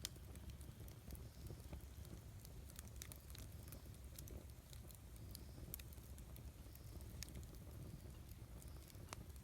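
Wood campfire crackling: irregular sharp pops and ticks, a few louder snaps among them, over a low steady rumble.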